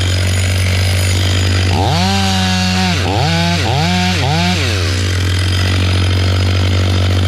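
Two-stroke chainsaw revving: it winds up and holds high for about a second, then gives three quick revs and drops back to idle, over a steady low engine drone.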